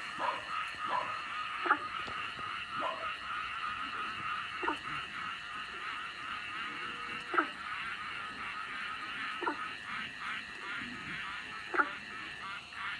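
Frogs calling: a steady, fine-pulsing chorus with separate downward-sliding calls every second or two, the loudest about two seconds in, near the middle, and near the end.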